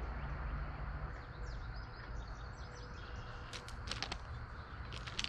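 Birds chirping faintly over a steady low outdoor rumble, with a few short, sharp high notes a few seconds in and again near the end.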